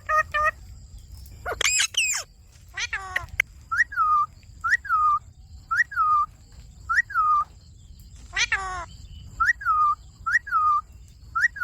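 Indian ringneck parrot calling: a run of short whistled calls, each rising and then dropping, about one a second. Two harsher screeches come in between, about two seconds in and again past the middle.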